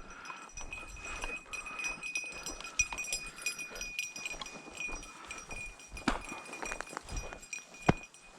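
Footsteps and rustling of a person walking through dry grass and brush, with two sharper snaps or thumps near the end.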